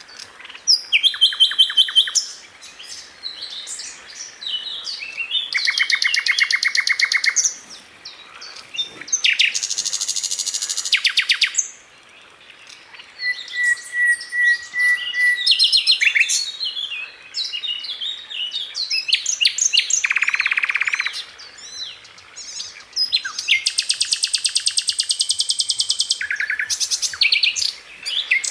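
Sikatan Londo flycatcher singing: high-pitched phrases of very fast repeated notes and chirps, each lasting a second or two, with short pauses between. This is the tight, rapid-fire song that bird keepers play as a tutor recording for other songbirds.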